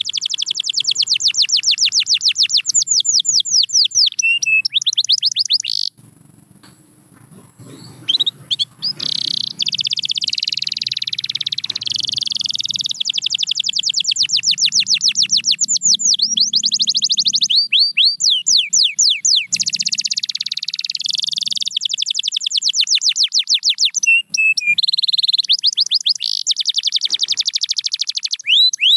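Domestic canary singing: fast trills of rapidly repeated, downward-sweeping notes alternating with long rolling, warbling phrases, with a short pause about six seconds in.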